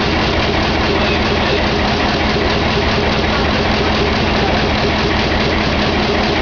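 Stationary engine running steadily.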